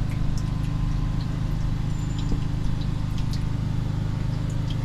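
Engine of a drain-clearing unit running steadily at a constant speed, with scattered light clicks over it.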